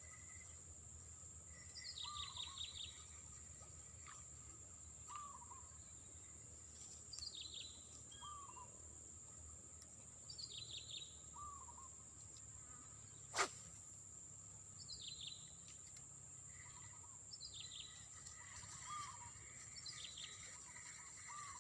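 A bird repeating a short phrase about every two to three seconds, each a low falling note followed by a quick run of high descending notes, over a steady high-pitched insect drone. One sharp click about 13 seconds in.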